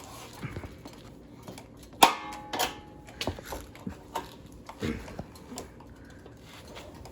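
Scattered clicks and knocks, the loudest a sharp click about two seconds in.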